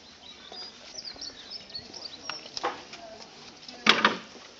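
Small birds chirping in short high calls, with a few soft clicks, then one sharp loud knock about four seconds in.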